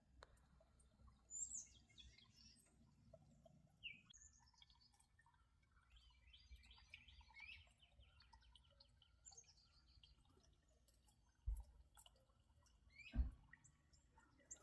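Faint calls and chirps of small wild birds, several short calls sweeping downward in pitch and a spell of busy chattering in the middle. Two brief low thumps near the end, the second the loudest sound.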